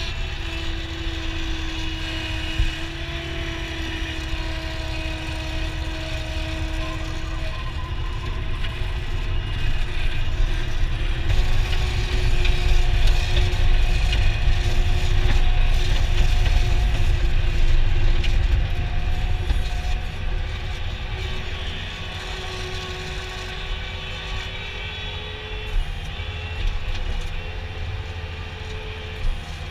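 A vehicle engine running steadily with a deep rumble and a held engine note that drifts up and down in pitch. It grows louder about eleven seconds in and eases back near twenty seconds.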